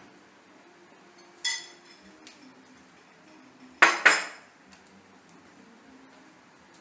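A short ringing clink of hard objects about a second and a half in, then two loud sharp knocks close together near the middle.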